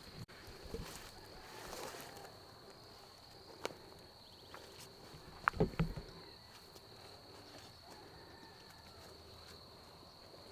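Hunters walking slowly and quietly outdoors: scattered soft footsteps and rustles, with a louder cluster of steps or knocks about five and a half seconds in, over a steady faint high-pitched whine.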